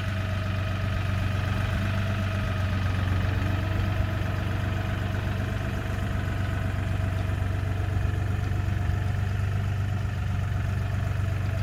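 LS MT235 compact tractor's diesel engine running steadily, a constant low hum with a faint steady whine above it.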